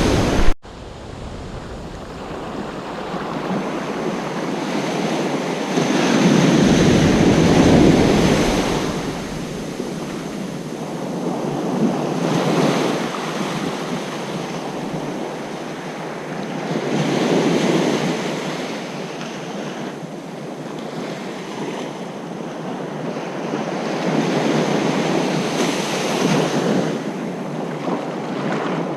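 Ocean surf breaking and washing up a beach, surging louder and falling back every few seconds. The sound cuts out sharply for a moment just after the start.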